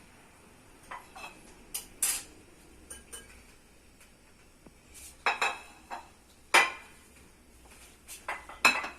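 Scattered clinks and knocks of a dish and cutlery being handled, each ringing briefly. The loudest comes about six and a half seconds in.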